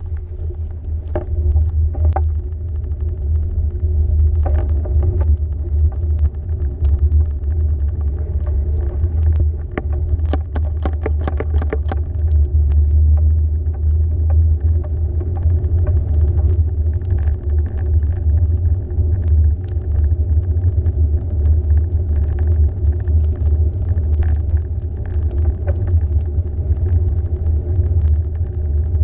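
Steady low rumble of ride noise while moving along, with scattered clicks and rattles that cluster about ten to twelve seconds in.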